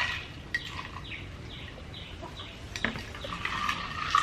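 A bird chirping, a short falling chirp repeated about three times a second, with a couple of light knocks.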